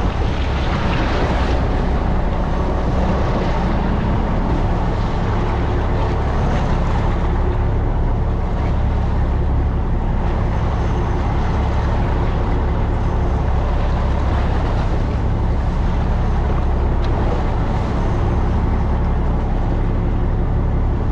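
Fishing boat's engine running at a steady speed: a constant low drone with an even rushing noise above it.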